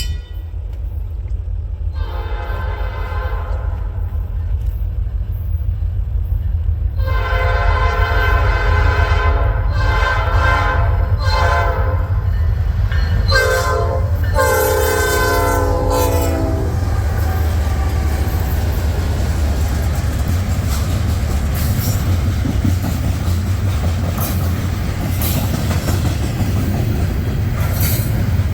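A diesel freight locomotive's multi-chime air horn sounds the grade-crossing signal, long, long, short, long, as the train approaches. The horn ends about two-thirds of the way in, and the locomotives and freight cars rumble past with wheels clattering over the rail joints.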